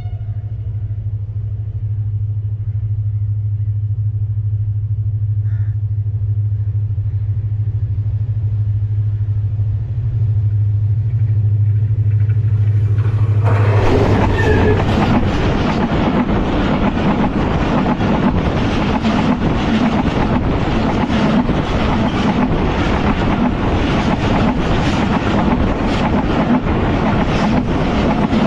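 A train approaching along the track with a steady low engine drone, then, about halfway through, running right over the trackside camera. From then on there is a loud rumble and clatter of steel wheels on the rails, with repeated clacks as the coaches' wheels pass.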